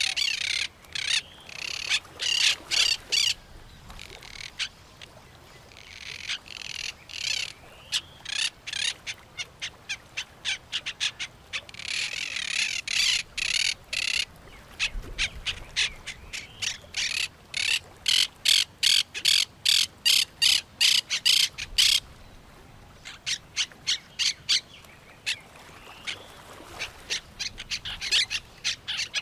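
Birds calling in long runs of short, high chirps repeated about three or four times a second, with some faster trilled passages and brief pauses between runs.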